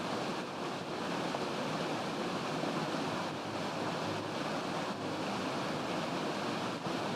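Steady, even rush of water falling down a tall cascading waterfall.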